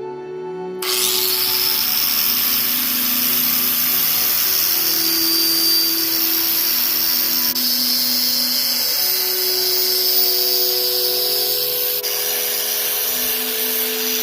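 Angle grinder grinding steel: a loud, steady hiss that starts about a second in, over background music with slow held notes.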